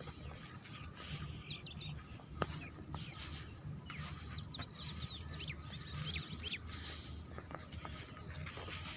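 Small birds chirping in quick, high, falling notes: a brief cluster about a second and a half in and a longer run from about four to six and a half seconds, over a steady low rumble.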